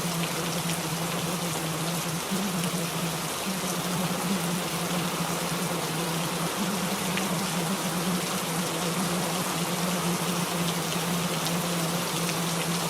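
Steady rain noise, an even hiss of falling drops, with a low hum running underneath.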